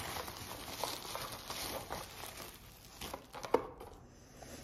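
Bubble wrap crinkling as a package is unwrapped by hand, with scattered sharp clicks. The loudest click comes about three and a half seconds in, and the crinkling dies down near the end.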